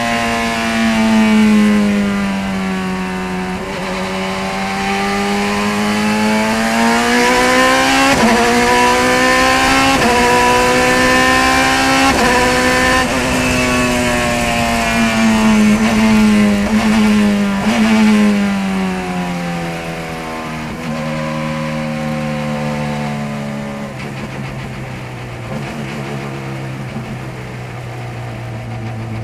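A single race car's engine running close and steady, its revs rising and falling with a few brief breaks. In the second half it drops in steps to low revs, near idle.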